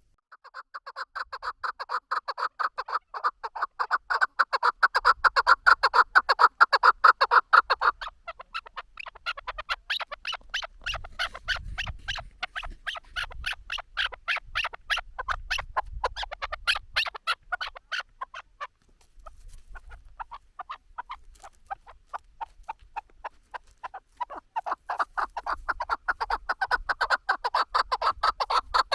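Chukar partridge calling: a long, rapid series of clucking 'chuck' notes that swells, eases off for a few seconds past the middle, then builds again near the end.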